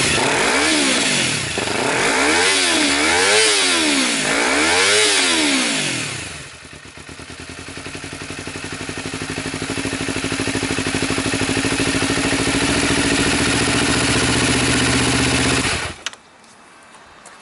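Honda CBR250RR (MC51) parallel-twin engine breathing through a Yamamoto Racing SpecA full exhaust: a series of quick throttle blips, each rising and falling, then settling to a steady idle. About sixteen seconds in, the engine is shut off abruptly.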